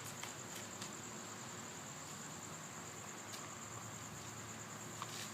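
Light summer rain hissing softly, with a steady high-pitched insect trill over it and a few faint taps.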